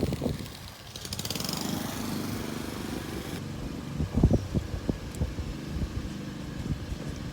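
Road vehicle noise: a steady engine rumble with a hissy, rapidly ticking high band that cuts off suddenly about halfway, then a run of low thumps.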